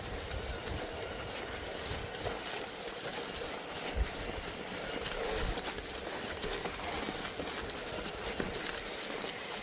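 Steady rolling noise of a ride over a snowy mountain trail, with wind buffeting the microphone and a single knock about four seconds in.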